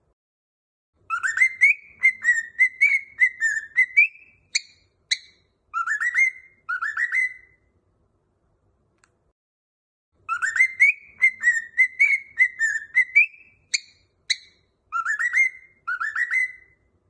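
Cockatiel-style whistle song: a short warbling phrase of quick rising notes, two sharp chirps and two rising slurs. The phrase plays twice, identically, with a few seconds of silence between.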